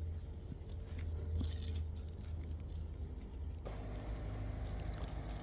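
Faint jingling and rustling of someone walking, with light clinks, over a low steady rumble.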